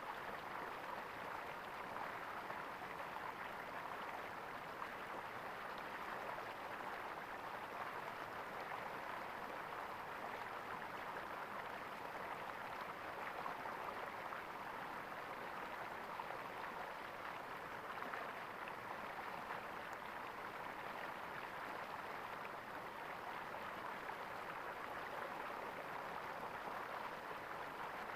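Water gurgling and flowing steadily, an even rushing wash with no breaks or changes.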